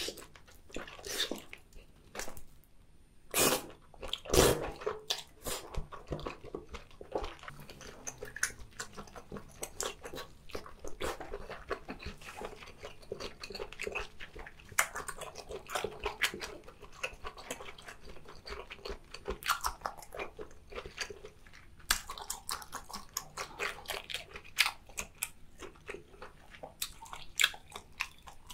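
Close-miked chewing and biting of boiled octopus, many short irregular mouth clicks, the loudest bites about three and four and a half seconds in.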